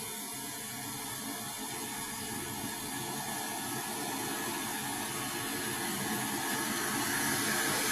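Fast floodwater of a swollen river rushing, a steady noise of turbulent water that grows gradually louder.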